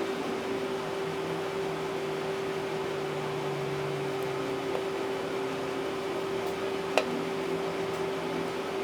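Steady machine hum with a constant low tone over a faint hiss, and one sharp click about seven seconds in.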